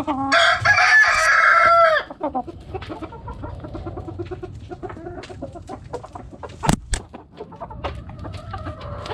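A rooster crows once near the start, a loud call of about two seconds, over hens clucking. Two sharp knocks sound a little past the middle, and the clucking carries on.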